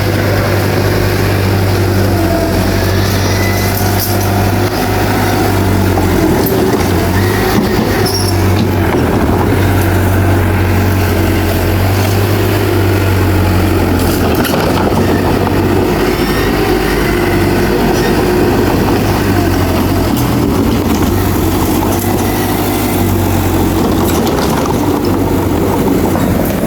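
Bulldozer's diesel engine running steadily under load, with a few clanks from the machine.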